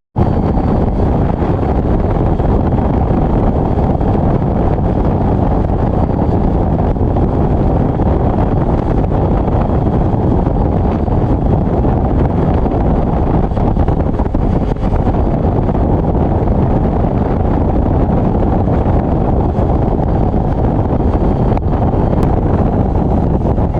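Steady, loud wind rush over the microphone while a Yamaha Tracer motorcycle is ridden at road speed. It starts abruptly at a cut and goes on without a break.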